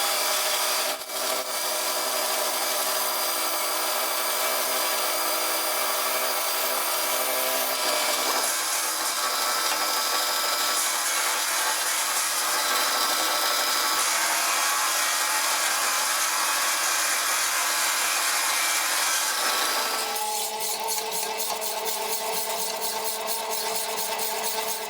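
An electric power tool running under load against a workpiece: a steady motor whine under a dense rasping noise. The sound changes abruptly about a second in, again about eight seconds in, and once more about twenty seconds in.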